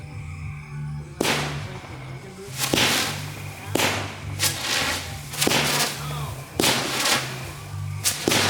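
Fireworks going off in a string of sharp bangs, roughly one a second, starting about a second in, each with a short echoing tail.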